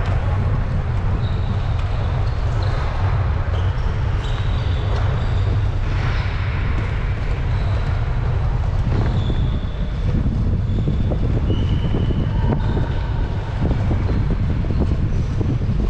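Wind rushing over a bike-mounted action camera's microphone, over a steady low rumble of a track bike's tyres and drivetrain on the velodrome, with a few short faint high tones.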